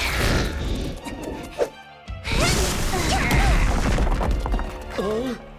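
Animated battle sound effects over dramatic background music: a loud rushing blast at the start, a sharp hit about a second and a half in, then a longer, louder blast from about two seconds in that dies away near the end.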